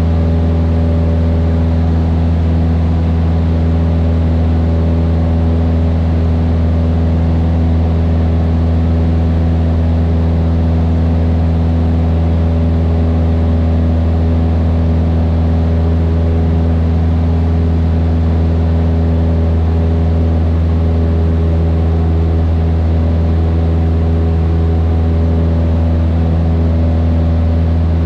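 Cessna 152's Lycoming four-cylinder piston engine and propeller droning steadily at constant power, heard inside the cockpit.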